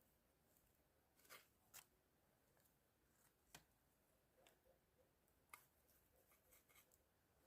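Near silence broken by a few faint, sharp snaps, spaced a second or two apart, then a quick run of softer ticks near the end.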